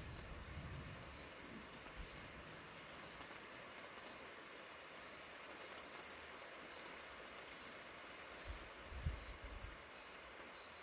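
A short high chirp repeating about once a second from a small calling animal, the chirps coming slightly faster toward the end, over a steady hiss. A brief low rumble comes about nine seconds in.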